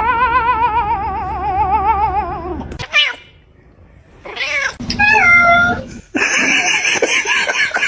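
Domestic cat vocalising: a long wavering yowl lasting nearly three seconds, then a short call and a couple of meows, ending in a harsher, rougher call.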